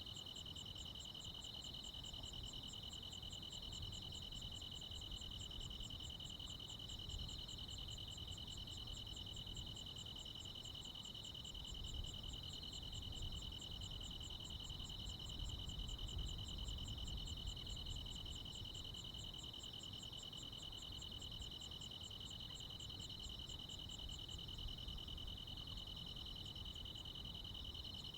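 Crickets and other insects singing together on a summer night: a steady, unbroken high trill, with a faster pulsed chirping higher up that stops a few seconds before the end. A faint low rumble lies underneath.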